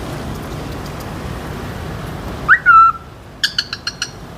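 A pet bird gives one loud whistled note that swoops up and then down, then a rapid run of about six short chirps.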